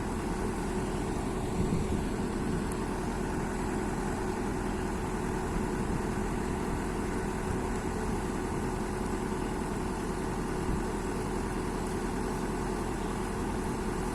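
Heavy diesel engine idling steadily, an even drone with no revving.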